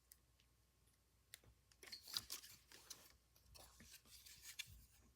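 Faint clicks and rubbing of plastic LEGO pieces as the built fox model is handled and its jointed parts are moved, scattered irregularly from about a second and a half in.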